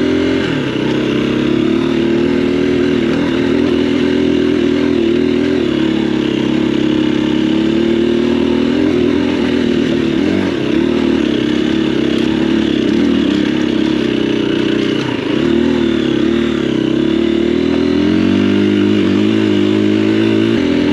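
Husqvarna FE 350 single-cylinder four-stroke dirt bike engine pulling under load up a steep dirt hill climb, the revs holding steady with a couple of brief dips as the rear tyre finds grip.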